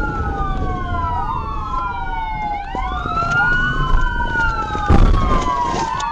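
Police car sirens wailing, at least two of them rising and falling out of step with each other, over low vehicle rumble. A loud knock about five seconds in.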